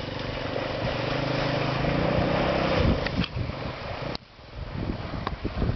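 Vehicle engine running steadily with road noise while travelling. The sound drops off sharply about four seconds in, and a few short knocks are scattered through it.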